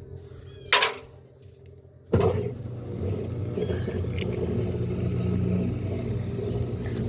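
A sharp click, then about two seconds in a washing machine starts up with a steady low motor hum and rumble.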